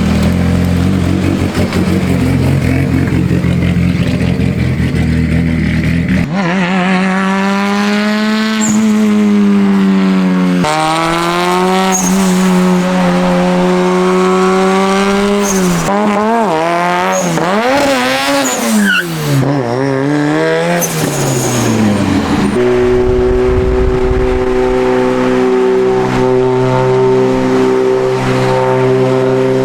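Tuned Mitsubishi Lancer Evolution X's turbocharged four-cylinder engine, heard over several edited shots. It runs steadily at low revs, then is revved and eased off again and again, its pitch rising and falling. Near the end it holds steady, higher revs.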